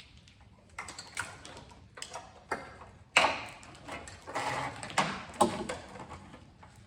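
Irregular sharp clicks and rattling knocks of plastic wiring clips and connectors being pried loose and the harness handled in a car's engine bay. The loudest snaps come about three seconds in and again about five and a half seconds in.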